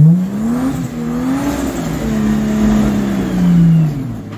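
Four-wheel-drive engine revving hard under load as the vehicle attempts a steep rock climb, the revs rising and wavering, holding high, then falling back to idle near the end.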